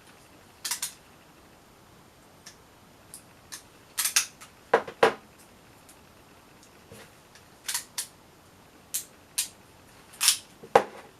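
Plastic handling noise as a robot vacuum's remote control and its packaging are unwrapped: about a dozen short, sharp clicks and crackles at uneven intervals, with quiet pauses between.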